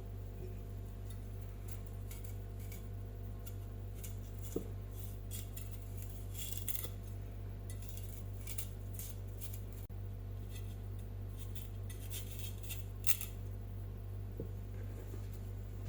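Kitchen utensil work: a run of light, crisp snips, clicks and scrapes, over a steady low hum.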